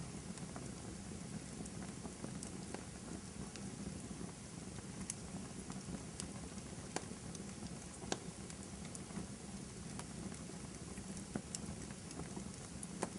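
Wood fire crackling in a fireplace: a steady hiss of burning with sharp pops at irregular moments, a few of them louder.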